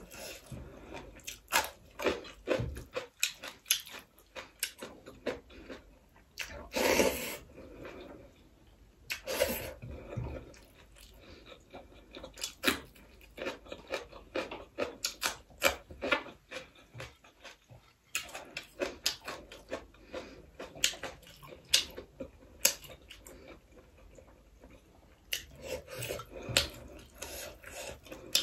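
Close-miked chewing and lip-smacking of a person eating rice and curry by hand, many short wet chews in quick succession, with two louder, longer mouth sounds about a third of the way in.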